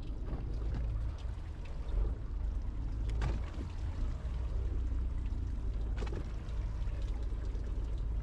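Water pouring and splashing over a steady low rumble, with two sharp knocks, about three and six seconds in.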